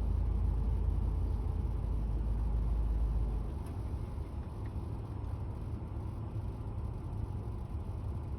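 Steady low rumble of a fire ladder truck's idling diesel engine, which drops to a lower, quieter running about three and a half seconds in.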